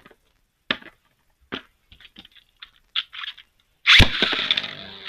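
Sharp plastic clicks as Beyblade Burst tops are fitted to their launchers, then about four seconds in a sudden launch, after which the tops spin and grind against each other in the stadium with a steady high whirr.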